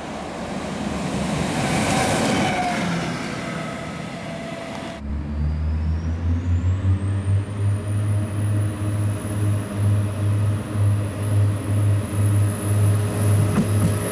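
A yellow rail maintenance vehicle runs past with a rumble that swells and fades. After a cut, a class 615 Itino diesel railcar approaches with a heavy low throb that pulses about twice a second. Over its engine a high whine rises and then holds steady.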